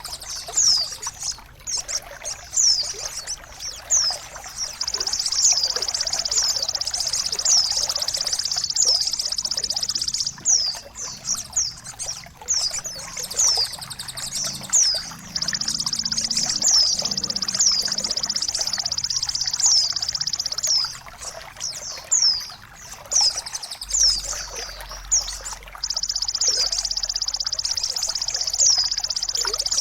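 Trickling water with a songbird singing over it: a high, continuous trilling song that breaks off and resumes several times, laced with quick downward-sliding whistle notes.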